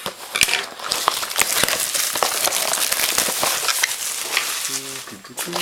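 Plastic shrink-wrap crinkling and tearing as a sealed trading-card box is unwrapped, a steady crackle with many small snaps.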